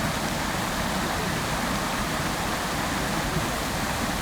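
Fountain water splashing steadily into its basin: a dense, even rush of falling water.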